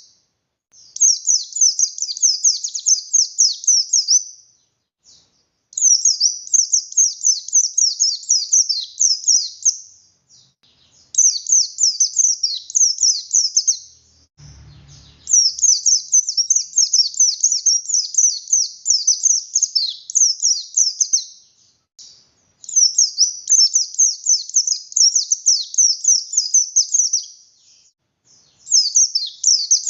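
White-eye (pleci buxtoni) singing hard: bouts of fast, high twittering song a few seconds long, broken by short pauses. A brief low thump comes about halfway through.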